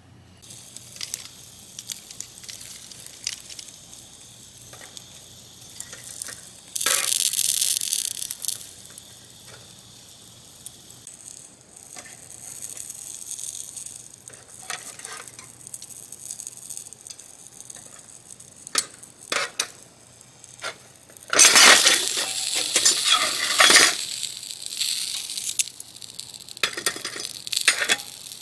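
Food sizzling on a small iron griddle plate, with two louder spells of sizzling, one about a quarter of the way in and one about three quarters of the way in, and scattered light clicks and clinks of utensils.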